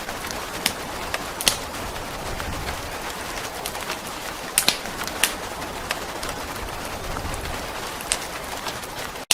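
Steady rain hiss with the sharp, irregular crackles and pops of a wood fire burning in a fireplace.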